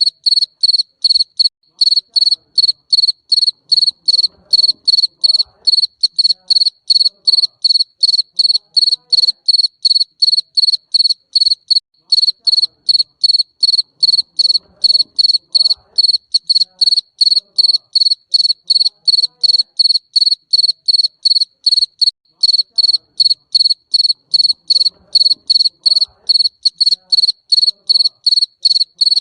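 Garden cricket chirping in a steady, even run of short chirps at one high, clear pitch, about three chirps a second.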